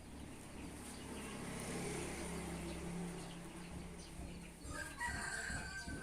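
A rooster crowing once near the end, over a faint steady background hiss with a low hum in the first few seconds.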